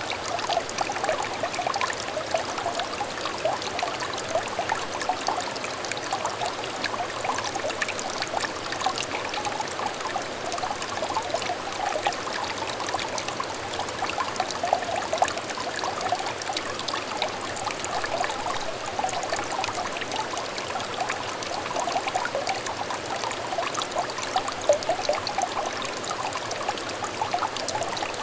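A small stream of water trickling and burbling steadily, with many small gurgles and splashes and no break in the flow.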